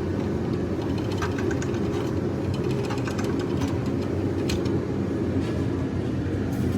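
Retractable air hose reel's ratchet latch clicking in quick runs as the hose is tugged and played out, over a steady low rumble.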